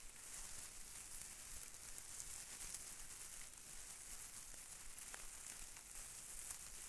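Faint, fine crinkly rustling with scattered tiny clicks over a steady hiss.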